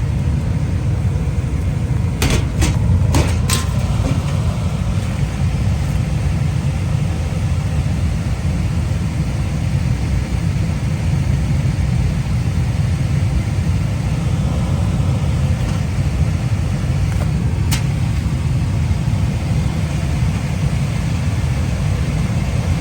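Carrier gas furnace running, a steady low rumble from its blower and burners. A few sharp clicks come about two to three and a half seconds in, and one more near eighteen seconds.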